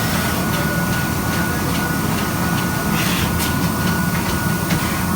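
Eight-spindle CNC machine running: a steady mechanical drone with a constant high whine and scattered light clicks.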